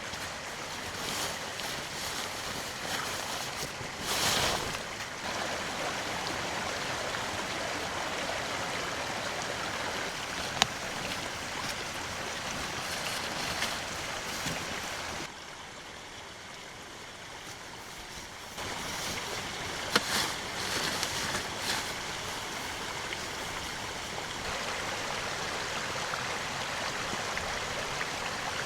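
Steady rushing hiss of heavy rain, falling off for a few seconds in the middle, with two sharp ticks about ten seconds apart.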